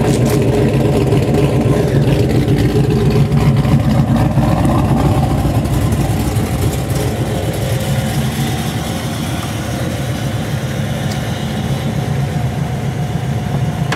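1995 Pontiac Trans Am's LT1 V8 running at a steady idle through long-tube headers and a Magnaflow catback exhaust. The exhaust note is a little louder in the first few seconds, then settles slightly lower.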